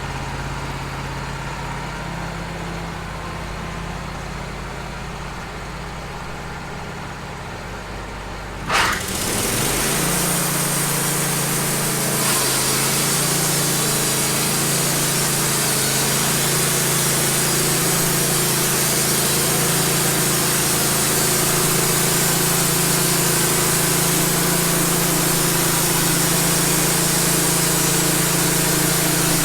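Wood-Mizer LT15 band sawmill's engine running at idle, then brought up to speed quickly about nine seconds in. The band blade then runs and cuts steadily through a cedar log, a loud even hiss over the engine.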